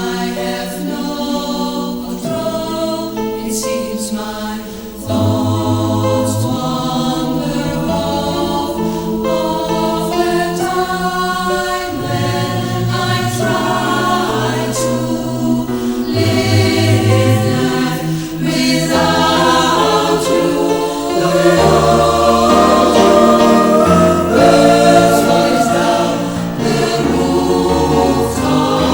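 Choral music: many voices singing sustained chords over a bass line, growing fuller and louder about five seconds in and again in the last third.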